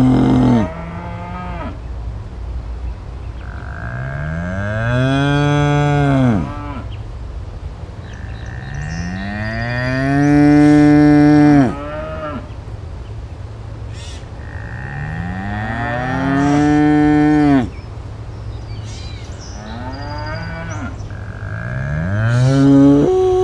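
Cattle mooing: a call ending at the start, then four more long moos about every six seconds, each rising in pitch, holding, then falling away.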